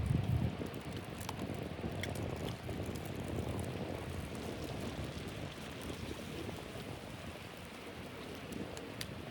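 Blizzard wind rushing steadily, strongest in a low gust at the start and easing slightly, with a few faint scattered ticks.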